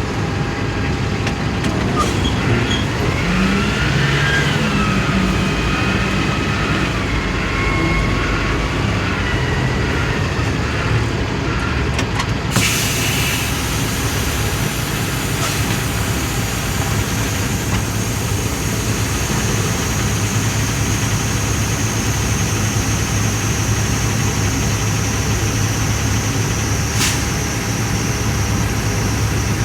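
Ottawa shunt truck's engine running steadily, with a high whine joining in about twelve seconds in and a sharp click near the end.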